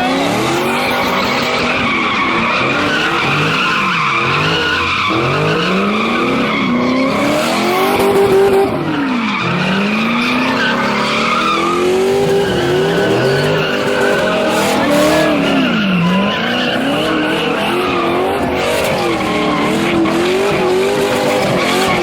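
Car engines revving up and down again and again while the tyres squeal continuously: cars spinning donuts and sliding in a street takeover.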